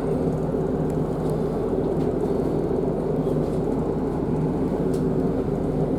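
Diesel engine of a Class 150 Sprinter DMU running steadily, an even hum with no change in pitch or loudness.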